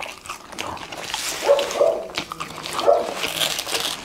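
Close-up chewing of french fries, with short high-pitched whine-like sounds a few times and crisp crunchy noises.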